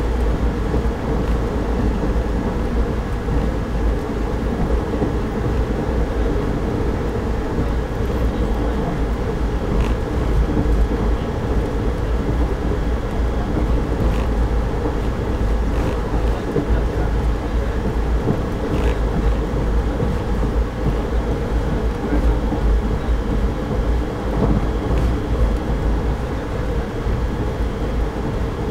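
Indian passenger train running along the track: a steady rumble, heaviest in the low end, with a few faint clicks scattered through it.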